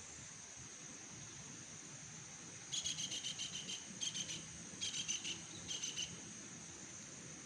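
Insects calling: a steady high-pitched drone, with four short bursts of rapid pulsed chirping between about three and six seconds in.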